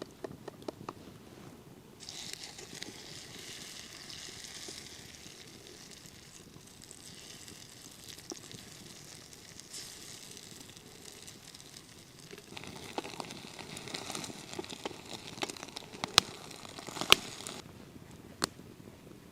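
Food sizzling in a frying pan over a wood fire. The sizzle starts suddenly about two seconds in, swells again later with a few sharp clicks, and cuts off shortly before the end.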